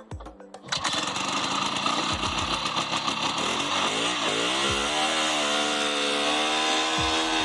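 Scorpion snowmobile engine running, coming in about a second in; its pitch rises around four seconds in as it revs up, then holds steady.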